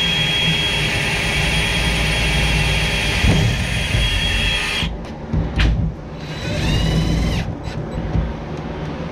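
Power drill running steadily with a high whine for about five seconds, then stopping abruptly, as it deburrs a freshly drilled hole for a fuel-tank sump. A second, shorter burst follows about a second and a half later, its whine rising in pitch.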